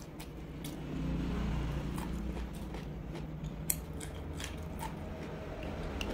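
Close-miked chewing of roast duck: wet mouth clicks and smacks at irregular moments, the sharpest a little before four seconds in, over a steady low hum.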